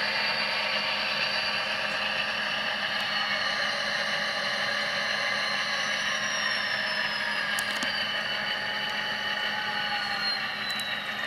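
Sound-decoder recording of an EMD 645 diesel engine playing through a model locomotive's small speaker: a steady, thin engine drone made of several whining tones, which slowly fall in pitch over the second half as the engine winds down. A few faint clicks near the end.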